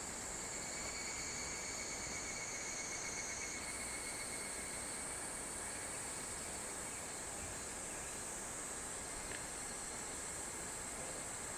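A chorus of summer insects shrilling steadily at a high pitch, over a faint, even hiss.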